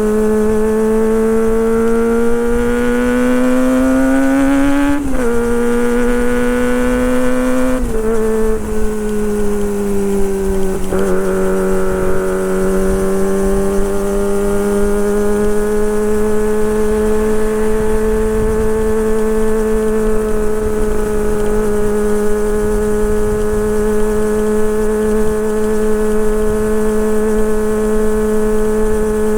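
Kawasaki Ninja ZX25R's 250 cc inline-four engine pulling under load, its pitch climbing and then dropping sharply twice in the first eight seconds like quick upshifts, then holding a nearly steady high-revving note with gentle rises and falls.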